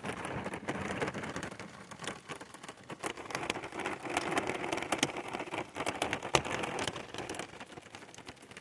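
Hard rain drumming on a small boat's cuddy cabin, heard from inside: a dense, irregular patter of sharp taps that sounds like hail, though it is hard raindrops.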